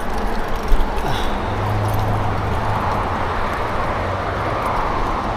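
Wind rushing over the microphone and tyre noise from an e-bike rolling fast downhill, with a single thump about a second in and a low hum for a second or so after it.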